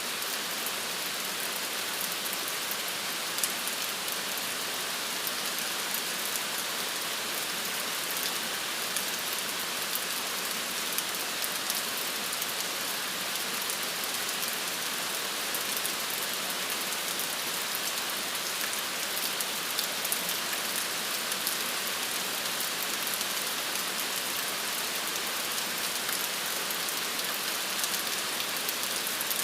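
Steady rain falling, an even hiss with the patter of many small drops hitting a surface.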